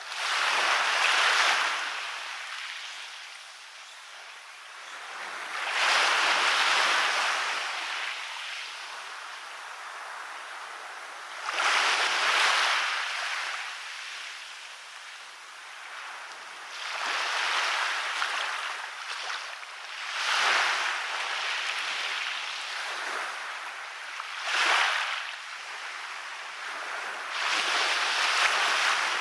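Waves breaking on a beach and washing up the shore, a hissing surge about every five or six seconds, each one fading before the next.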